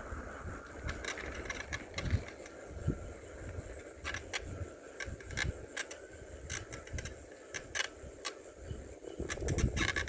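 Bicycle ridden along a paved road, its mechanism giving off irregular clicks in scattered clusters over a low, uneven rumble.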